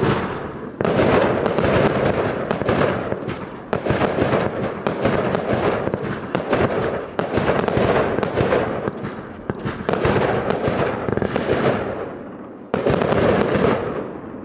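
Pyroweb Spatula firework battery (cake) firing: shots launch and burst overhead in a dense run of rapid pops and bangs that comes in waves every few seconds. The volley ends and dies away near the end.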